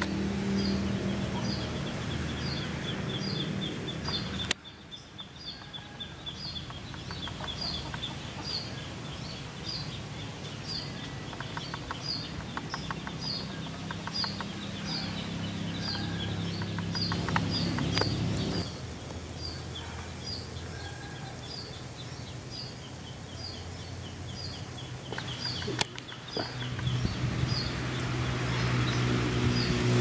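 Outdoor ambience in which a bird repeats a short, high chirp a little more than once a second, over a low steady hum. The background drops and changes abruptly a few times, about 4 s, 18 s and 26 s in.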